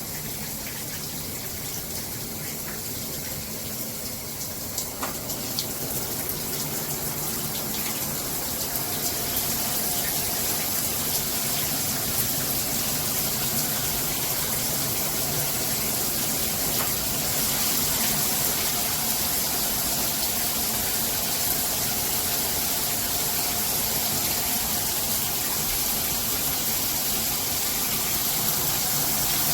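Shower head spraying water steadily onto the tub and tiles, growing a little louder over the first ten seconds or so.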